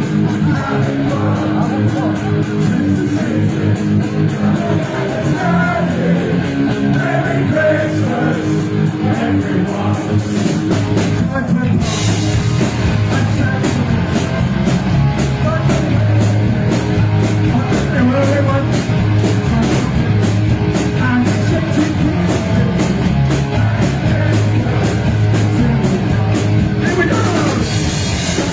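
Live punk-thrash band playing loud and fast, with pounding drums, bass and guitars under sung and shouted vocals. The drums briefly drop out of the top end a little past the middle, then come straight back in.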